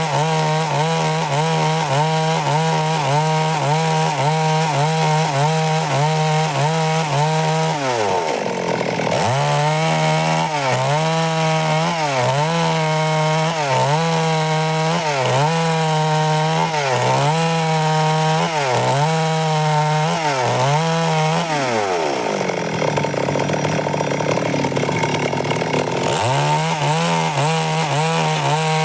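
Stihl MS 382 two-stroke chainsaw running hard while cutting along a log, its engine note wavering in a steady rhythm as the chain bites. The pitch sags sharply about eight seconds in, then drops lower and rougher under heavier load for a few seconds past the twenty-second mark before picking back up.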